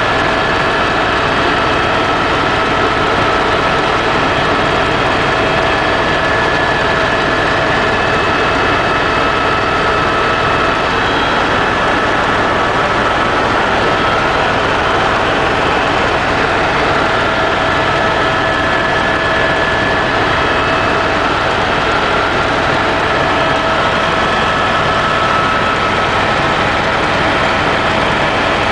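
Helicopter engine and rotor noise heard from inside the cabin in flight: a loud, steady drone with a constant whine over it.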